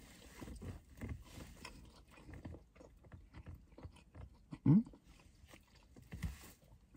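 A person chewing a mouthful of macaroni and cheese, with soft wet mouth clicks. About two-thirds through comes a short rising "mm" hum from the voice, the loudest sound.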